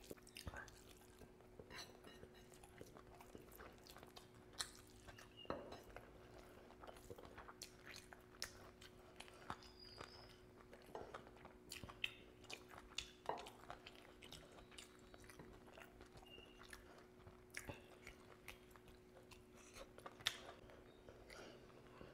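Close-miked chewing of rice and curry eaten by hand, with scattered sharp clicks and wet squishes of fingers mixing rice with gravy, over a faint steady hum.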